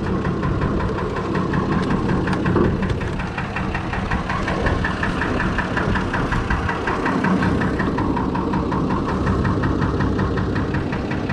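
Fordson Major tractor's swapped-in Perkins six-cylinder diesel engine idling steadily with an even diesel knock.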